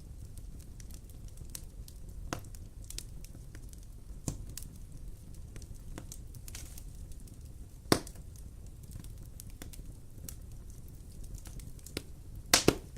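Wood fire burning with a steady low rumble and scattered crackles, a sharp pop about eight seconds in and a quick cluster of louder pops near the end.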